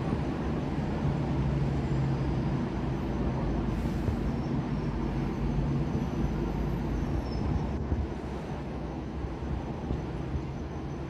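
A steady low rumble that eases slightly about eight seconds in, with faint thin high tones above it.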